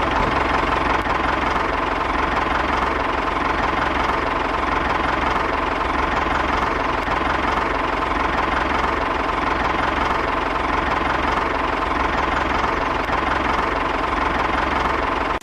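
Small engine of a miniature model tractor running steadily at an even speed.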